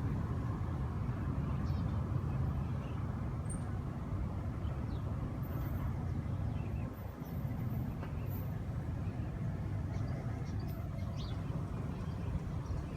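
A steady low rumble throughout, with a few faint, short bird chirps scattered over it.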